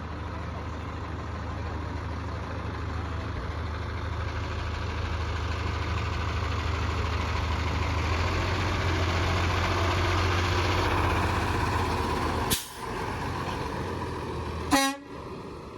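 Large truck's diesel engine running steadily and growing louder. About twelve seconds in there is a sharp short burst, and near the end another brief loud sound whose pitch falls.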